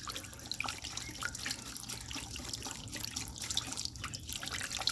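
A whisk stirring a thin marinade of water, oil and spice rub in a dish: liquid swishing and sloshing with many small irregular clicks of the whisk against the dish.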